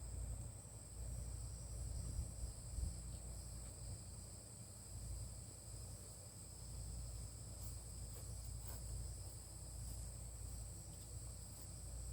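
Steady high-pitched chorus of crickets, two even tones running on without a break, over a low rumble, with a few faint clicks near the middle.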